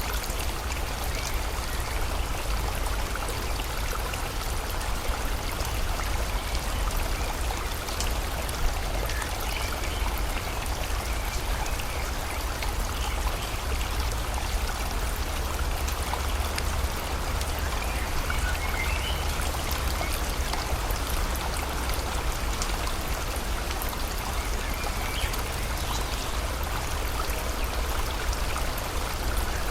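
Steady rush of a river mingled with falling rain, with a few faint bird chirps here and there.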